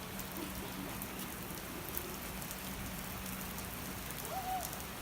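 Steady rain falling: an even hiss with scattered drop hits.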